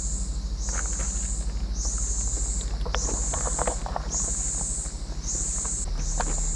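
Insects, likely cicadas, calling in high-pitched pulses about once a second, over a steady low rumble and a few faint clicks.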